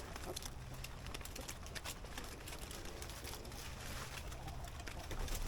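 Soft, low cooing bird calls.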